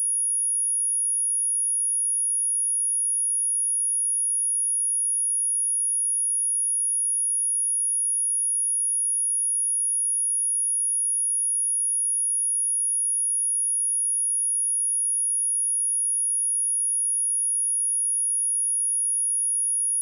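A steady, high-pitched 10404 Hz sine-wave test tone, one pure tone held unchanged throughout.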